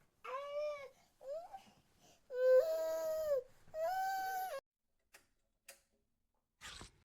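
An animal giving four whining, cry-like calls in the first half, each a held pitched note that bends slightly, the second short and rising, followed by a few soft clicks.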